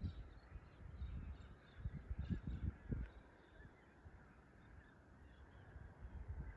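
Faint, scattered bird calls in the distance over an open paddock, with low rumbling bumps on the microphone during the first three seconds.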